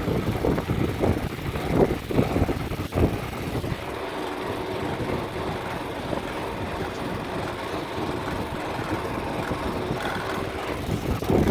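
Car making an odd, irregular rumbling noise for the first few seconds, then running more steadily, with the rough rumbling coming back near the end. The car is acting up.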